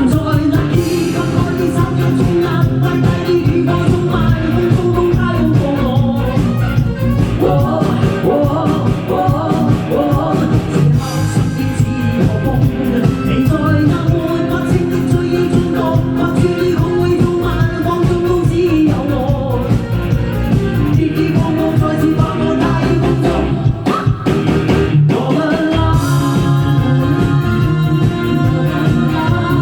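Live rock band playing with a lead singer: drums, bass and guitar under a sung vocal line, with a brief break in the accompaniment about 24 seconds in.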